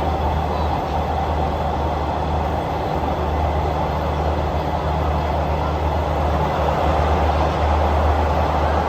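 Passenger train running along the track, heard from aboard: a steady low rumble with a rushing noise above it.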